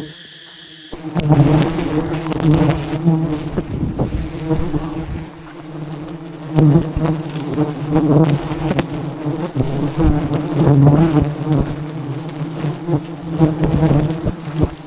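A dense swarm of wild honey bees buzzing loudly, a steady hum that starts about a second in, with scattered short clicks through it.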